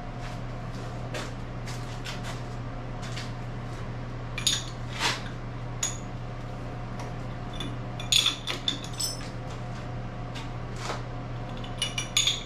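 Scattered metallic clinks and clanks as the locks on an 80-plus-year-old milling machine are worked and tightened. A steady low hum runs behind them.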